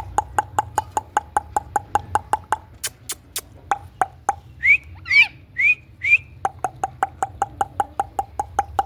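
Ringneck parrot chirping: four short rising whistled chirps in the middle, between runs of sharp, even clicking at about five clicks a second.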